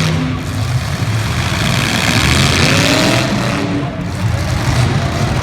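Demolition derby cars' engines running and revving together, a loud, dense engine noise.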